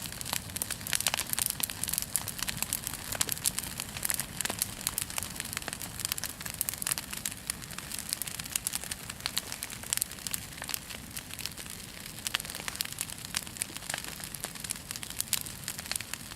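Bonfire crackling, a steady stream of irregular sharp pops and snaps.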